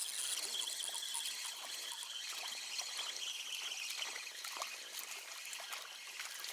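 Small spring trickling steadily through bushes, clear water running in a thin stream.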